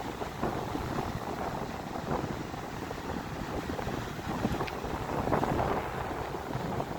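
Strong wind buffeting the microphone over the steady rush of a rough sea.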